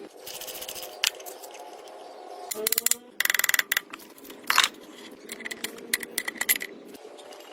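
Small metal parts and hand tools clinking and rattling as they are handled, with a dense run of rapid clicks about three seconds in.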